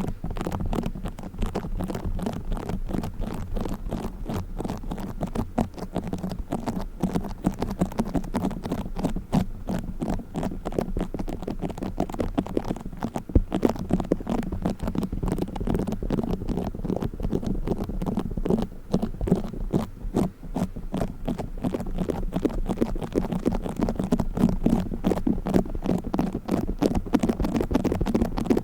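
Play Foam, the beaded modelling foam, being squished and kneaded close to the microphone, giving a dense, continuous crackle of tiny clicks.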